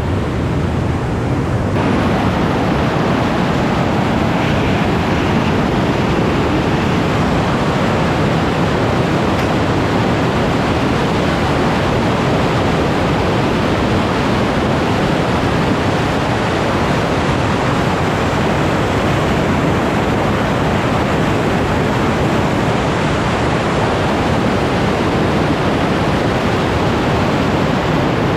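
Loud, steady rushing of a large waterfall, a dense noise of falling water that turns brighter and hissier about two seconds in.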